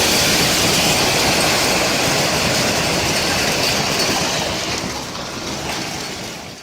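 Storm noise: a loud, steady rushing roar of wind and rain that eases slightly near the end, then cuts off.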